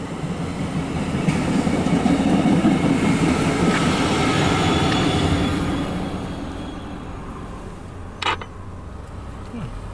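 MARC commuter train rolling past close by, its wheels rumbling over the rails with a faint high squeal in the middle, heard through a vehicle's closed windshield. The sound fades after about six seconds as the end of the train passes, and a single sharp click comes near the end.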